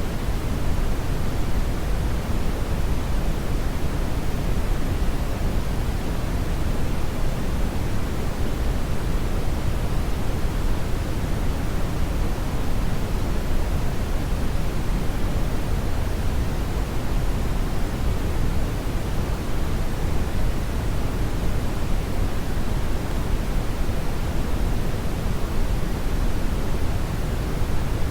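Steady brown noise: a constant, even hiss weighted heavily toward the low end, like a deep rumbling rush, with no changes or events.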